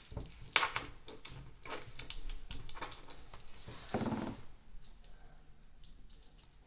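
Plastic LEGO pieces being handled and pressed together: a run of sharp clicks and taps, the loudest about half a second in, with a brief rustling scrape of pieces about four seconds in.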